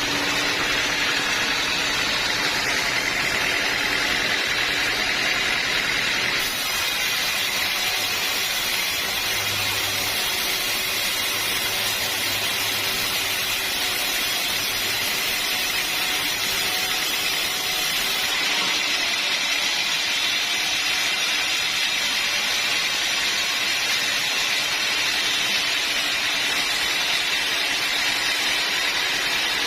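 Sawmill saw running steadily through a log of hard acacia wood, a continuous hissing machine noise that changes slightly about six seconds in and again near eighteen seconds.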